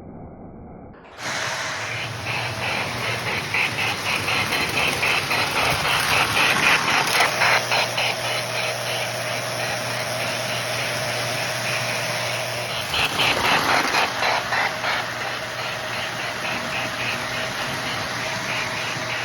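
Lionel 4-8-4 Lackawanna model steam locomotive running on track, its electronic Mighty Sound of Steam chuffing in a quick, even rhythm over a steady motor hum and rumbling wheels. The sound starts abruptly about a second in.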